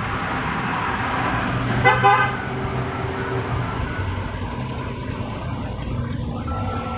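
Steady road-traffic noise with a vehicle horn honking briefly about two seconds in.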